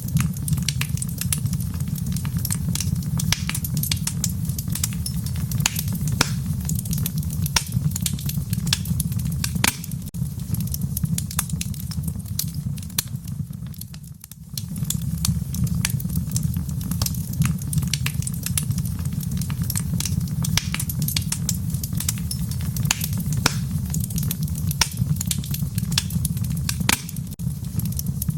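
Fire crackling in a fireplace: frequent sharp pops and snaps over a steady low rumble of flames, dipping briefly about halfway through.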